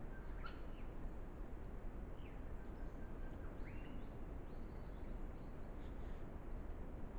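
Faint bird calls, a few short whistles and chirps scattered through, over the steady hiss of a trail camera's microphone.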